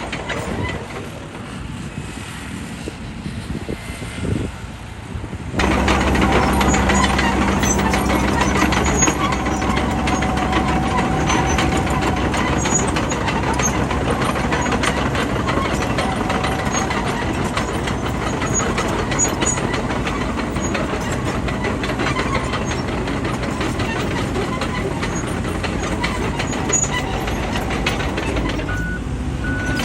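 Bulldozer's diesel engine running under load, growing abruptly louder about five seconds in and staying steady. Near the end a reversing alarm starts beeping.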